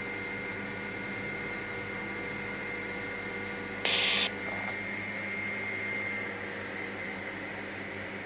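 Helicopter turbine engine idling on the ground to cool down after landing: a steady hum with several fixed tones and a faint high whine that drops slightly in pitch about six seconds in. About four seconds in, a brief burst of hiss lasting under half a second is the loudest sound.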